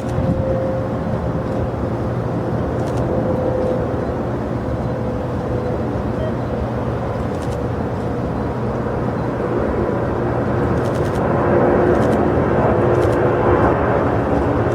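Jet airliner engines, a steady rumble with a held whine, growing gradually louder as the plane approaches.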